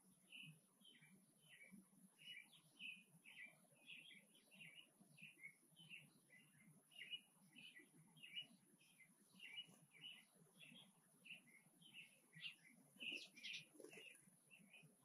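Small birds chirping faintly: a continuous, irregular stream of short high chirps, several a second.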